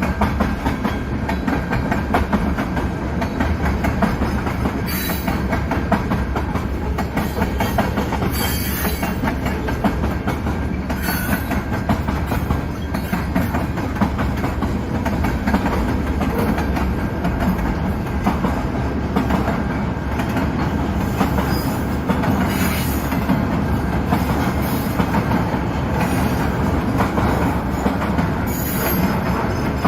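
CN mixed-freight train's cars rolling past with a steady loud rumble and clatter of wheels on the rails, broken a few times by short high wheel squeals.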